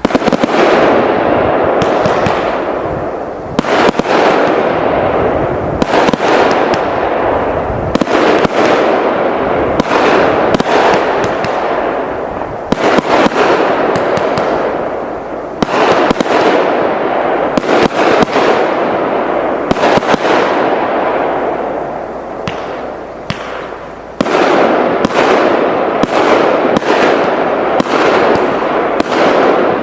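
TKB997 multi-shot firework cake firing: a dense, continuous barrage of shots and aerial bursts, each trailing off. The barrage thins briefly a few times and swells again.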